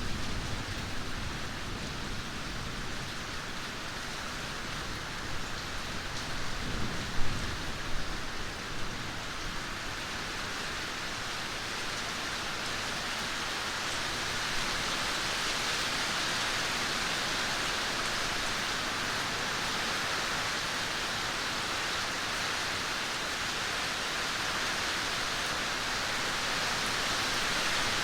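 Steady heavy rain. A low thunder rumble fades out at the start, and a short rumble with a few sharp cracks comes about seven seconds in.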